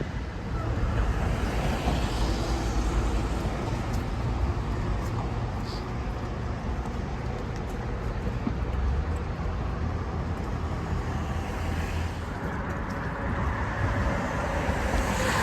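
City street traffic noise: a steady rumble of passing cars with a few faint clicks.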